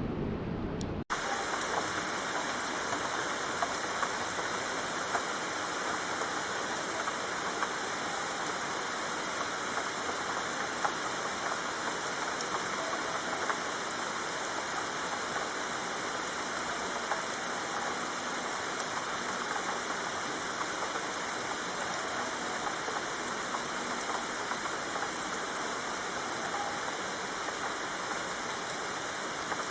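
Steady rain falling, a dense even hiss full of tiny drop ticks. About a second in, a low rumbling sound cuts off abruptly and the rain begins at full strength.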